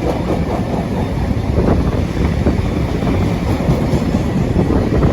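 A freight train hauled by a Class 66 diesel locomotive passing through the station, its wagons running past with a steady loud rolling noise and scattered irregular knocks from the wheels.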